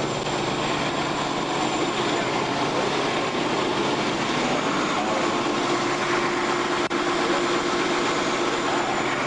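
Steady vehicle engine noise at idle, an even unbroken hum and rush with a constant low tone.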